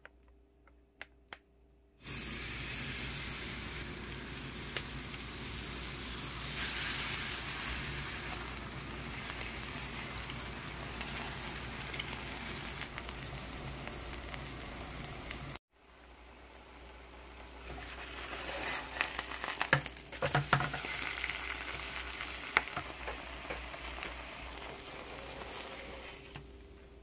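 Kimchi pancake frying in oil in a nonstick pan: a steady sizzle that starts suddenly about two seconds in and cuts off abruptly about halfway. It then builds back up with sharp crackles and pops and dies down near the end.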